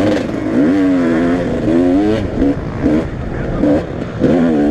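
Motocross motorcycle engines revving, the pitch rising and falling, with several short throttle blips in the middle.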